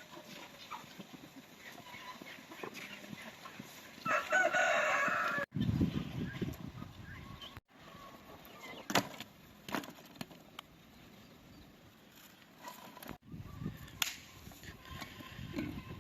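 A rooster crows once, about four seconds in, a loud call lasting about a second and a half. A low rumble and scattered clicks follow after it.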